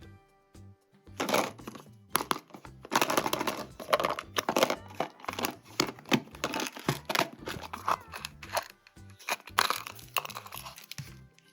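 Packaging crinkling and tearing in quick irregular bursts as a toy is unboxed, over soft background music.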